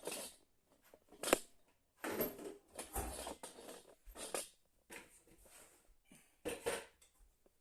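Handling noises from fitting a bidet seat attachment and its water tubing: a series of irregular clicks, knocks and rustles, with a sharp click about a second in.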